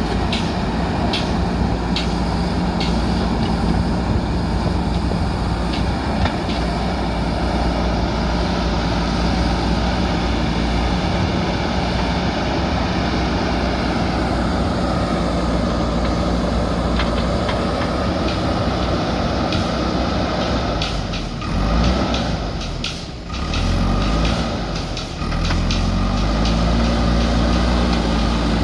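JCB backhoe loader diesel engine running hard under load, with repeated knocks and clanks of the machine at work. About three-quarters of the way through the engine note drops briefly, then revs up again near the end.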